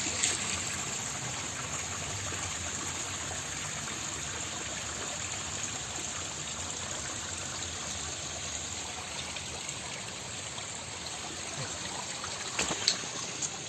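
Steady rush of a shallow mountain stream running over rocks, with a couple of faint knocks near the end.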